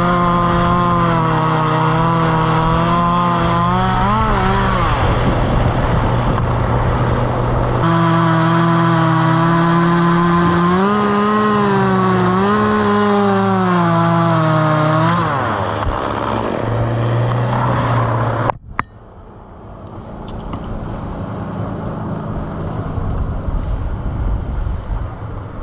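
Two-stroke chainsaw running at high revs, its pitch dipping and recovering twice as the chain bogs down in the wood. It drops to a lower steady running note about 15 s in and is cut off with a sharp click a few seconds later, leaving a rushing noise.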